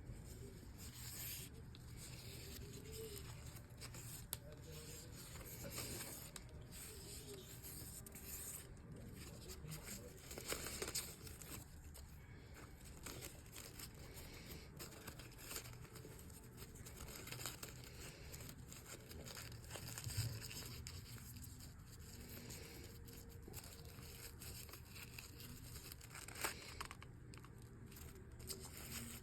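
Faint rustling and rubbing of ribbon being handled, looped and pulled into a bow, with scattered small clicks and taps, over a low steady hum.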